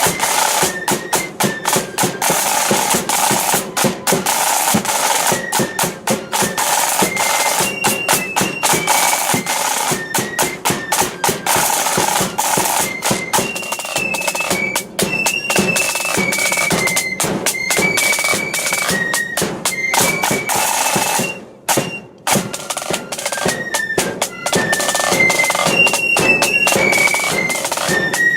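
Blood and thunder flute band playing a march: high flutes carry a stepping tune over loud, busy snare drum rolls and a bass drum. The music breaks off briefly about two thirds of the way through, then starts again.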